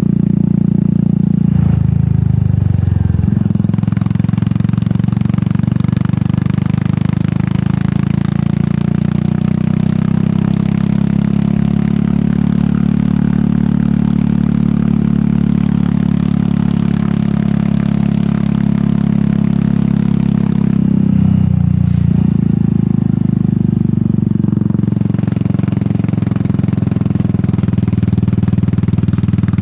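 Royal Enfield Meteor 350's single-cylinder engine running through an aftermarket sport exhaust while riding, a steady low exhaust note. The note dips briefly about two seconds in and again about twenty-one seconds in.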